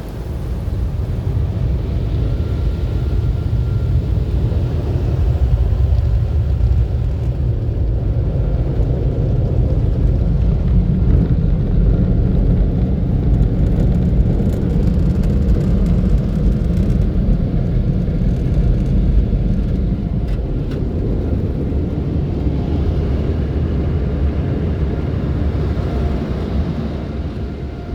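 Peco car wash tunnel equipment running with a steady, loud low rumble that builds in the first second and eases off near the end.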